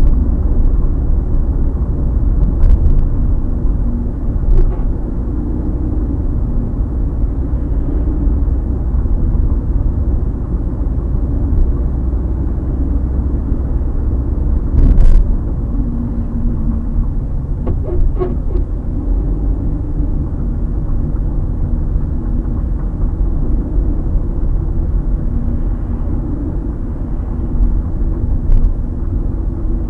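Skoda Rapid moving, with steady low road rumble, a few single knocks and a short burst of creaking about two-thirds of the way through. The creaks and knocks fit the squeak of the front anti-roll bar bushings, a known Rapid fault that the owner is demonstrating.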